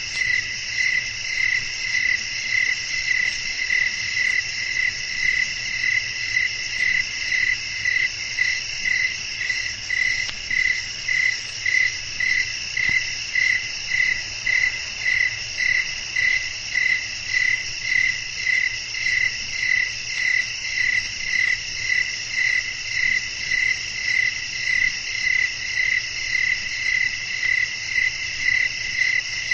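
Night chorus of crickets chirping: a steady high trill layered under one loud, regular chirp that pulses somewhat under twice a second.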